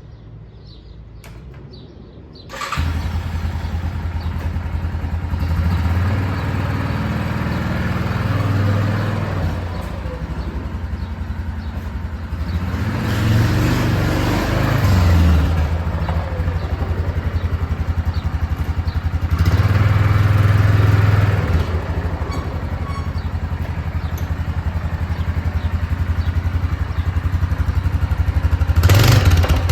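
Yamaha Grizzly 450 ATV's single-cylinder four-stroke engine starting about two and a half seconds in, then idling and being revved up a few times.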